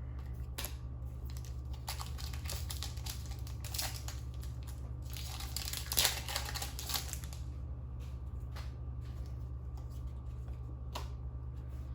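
Rustling and crinkling of trading cards and their packaging being handled, with a denser patch of crinkling about halfway through, over a steady low hum.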